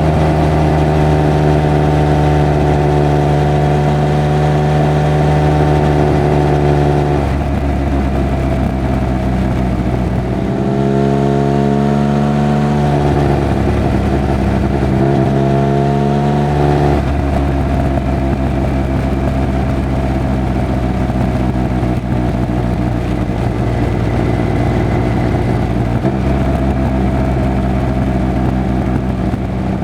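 Triumph Speed Triple 1200 RR's three-cylinder engine and exhaust under way at a steady engine speed. From about 10 to 17 s in the engine revs rise and fall twice, as with throttle changes or gearshifts. It then settles back to a steady drone.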